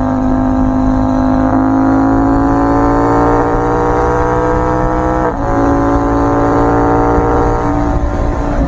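CFMoto 800MT Touring's 799cc parallel-twin engine pulling hard under full acceleration, revs climbing steadily. About five seconds in, a quick-shifter upshift cuts in without the clutch: the pitch drops sharply and starts climbing again.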